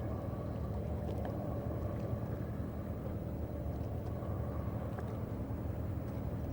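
Steady low hum of a boat engine running, even in level throughout, with a few faint clicks above it.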